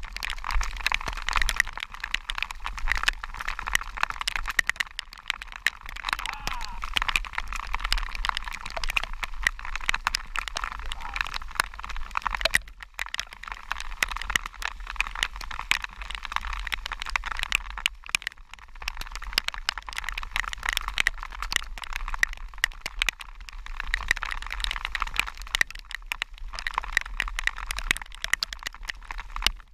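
Heavy rain pattering on a handlebar-mounted action camera's housing: a steady dense crackle of drops striking the case, over a low rumble of wind and wet tyres.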